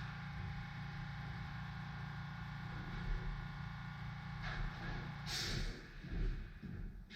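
A machine motor hums steadily, then shuts off about five seconds in with a brief hiss, followed by a few knocks.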